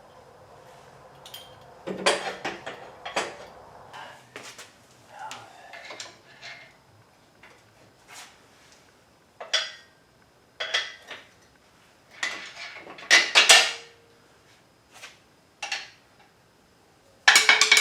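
Irregular metallic clanks and knocks of steel parts and tools as a new hydraulic ram is worked into place on an engine hoist, with the loudest strikes about thirteen seconds in and again near the end.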